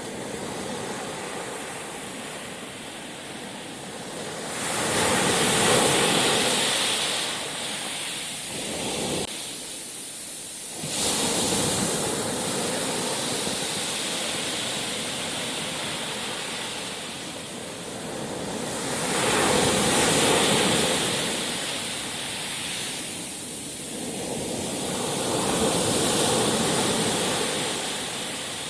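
Sea surf: waves rolling in and washing back, the rush swelling and ebbing about four times, with one wave arriving suddenly a little past ten seconds in.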